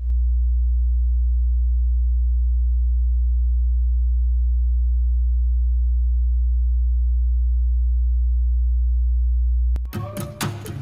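A loud, steady, very low pure tone, a deep hum, held unchanged for nearly ten seconds. It stops abruptly near the end, where music with sharp percussive strikes begins.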